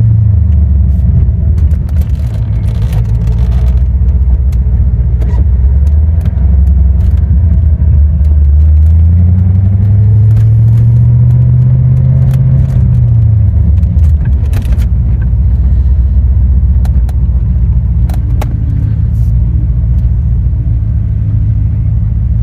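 1990 Chevrolet Corvette C4's V8 engine running under way. Its note falls in the first second or two, climbs for a few seconds about nine seconds in, and drops sharply at a gear change around the middle, then settles to a steadier, lower drone.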